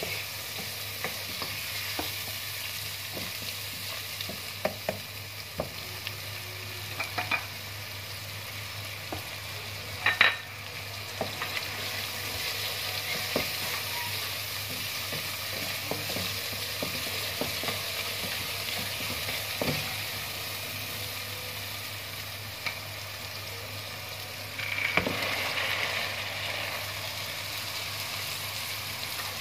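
Onion-tomato masala sizzling in hot oil in a non-stick pot while a wooden spatula stirs it, with scraping and short knocks of the spatula against the pan. About 25 seconds in there is a louder rush lasting a second or so as the soaked black-eyed peas are tipped into the sizzling masala.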